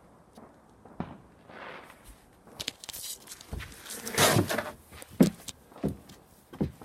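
Footsteps outdoors: a run of evenly paced steps in the second half, with a louder scuffing rustle just before them.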